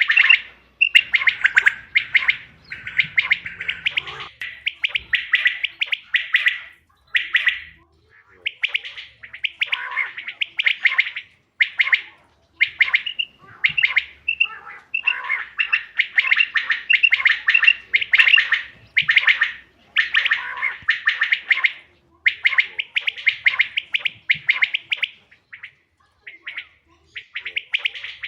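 Quail calling in quick chattering bursts of rapid notes, one burst after another with short gaps between.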